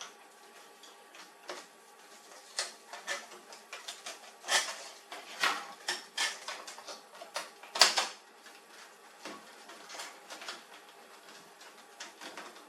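Irregular clicks and clacks of plastic and metal printer parts being handled, with a louder knock a little before the eight-second mark.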